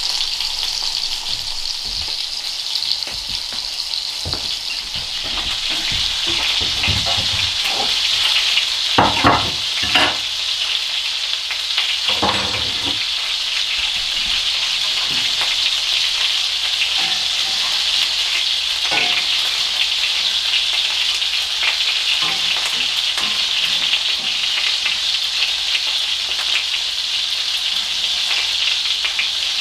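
Food frying in a pan, a steady sizzle throughout. A few knocks and scrapes come through, the loudest about nine to ten seconds in and again around twelve seconds.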